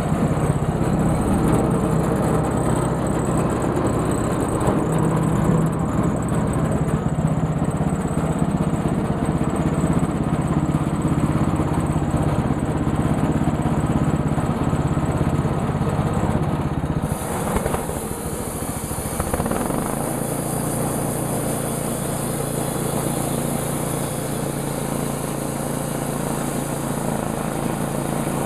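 Portable sawmill's engine running steadily as the saw cuts a black walnut log. About seventeen seconds in the sound changes abruptly, with the deep part of the engine note dropping away, and it then runs on more evenly.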